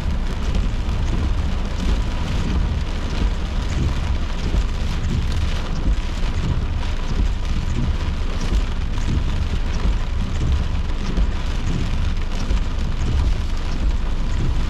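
Heavy rain pelting a car's roof and windows, heard from inside the car: a dense, steady patter over a deep rumble underneath.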